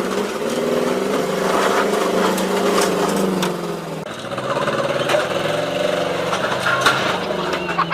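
A vehicle engine running, its pitch rising and falling as it speeds up and slows, with a few sharp knocks.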